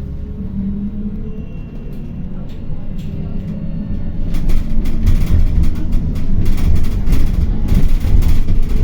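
Interior noise of a city bus on the move: a low rumble of motor and road that grows louder about halfway through, with repeated rattling and clattering of the bus's fittings.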